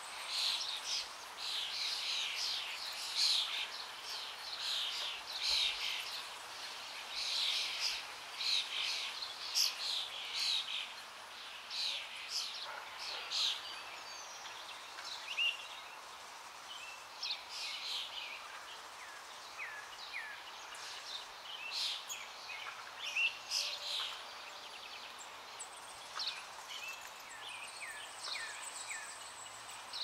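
Birds chirping and chattering in a dense run of short calls that thins out about halfway through into scattered chirps, some of them short downward sweeps.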